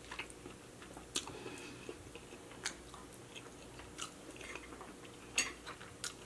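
Close-miked chewing of king crab meat: soft mouth clicks and smacks at irregular intervals.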